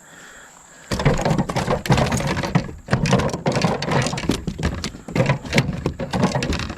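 Rapid, loud knocking and rattling from a freshly landed smallmouth bass thrashing against the kayak and gear. It starts about a second in, with short pauses.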